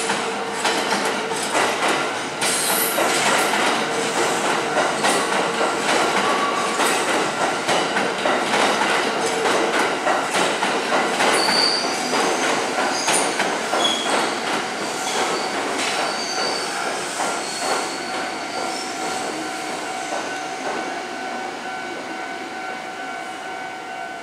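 Kintetsu electric commuter train running past, with a steady clatter of wheels over the rail joints. Brief high-pitched wheel squeals come in the middle, and the sound fades toward the end as the train moves off.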